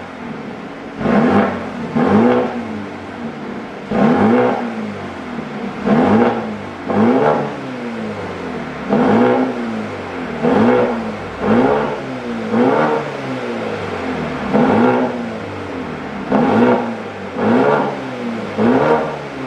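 Mercedes-AMG GLB35's turbocharged 2.0-litre four-cylinder engine, its centre and rear mufflers replaced with straight pipes, blipped again and again from idle. Each short rev rises and falls in pitch, about one every second or two, with the engine idling in between.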